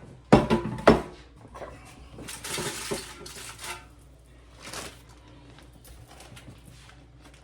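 Kitchen handling sounds: two sharp knocks of dishes or cookware about half a second apart, then about a second of rustling and light clatter, with scattered small clicks after.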